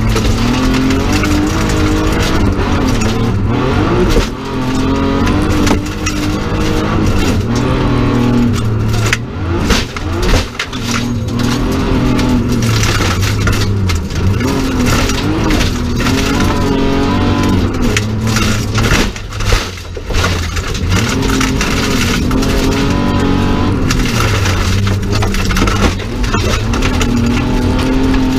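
BMW 325 rally car's straight-six engine heard from inside the cabin, revving hard on a gravel stage, its pitch repeatedly climbing through the revs and dropping at gear changes, with brief lifts off the throttle about 4, 10 and 20 seconds in.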